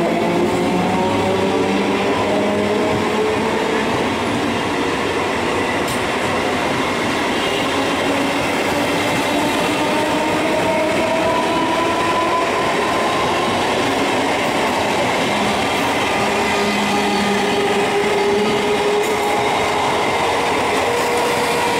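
Indian Railways electric multiple unit local train running past at speed: steady rumble and clatter of steel wheels on the rails, with a motor whine that slowly rises in pitch.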